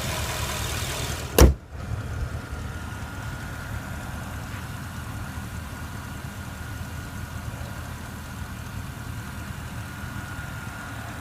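2015 Porsche Panamera Turbo's 4.8-litre twin-turbo V8 idling, with one loud slam about a second and a half in, after which the idle is quieter.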